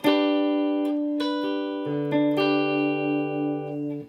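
Guitar chord strummed at the start and left ringing: a G chord fingered with a D-chord shape at the 7th fret. Further notes are picked about a second and two seconds in, with a low bass note joining near two seconds, and then the strings are damped and the ringing cuts off near the end.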